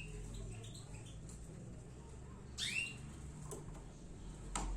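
A canary giving a single short chirp call that sweeps downward, a little over halfway through. Two sharp light clicks follow near the end.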